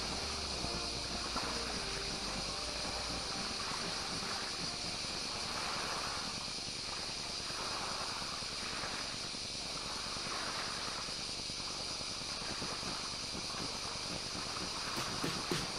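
Small lake waves washing against the shore, swelling every second or two over a steady high hiss.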